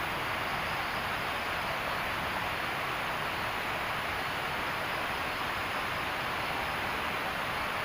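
Steady rushing of water, like heavy rain or a stream, holding at one level throughout.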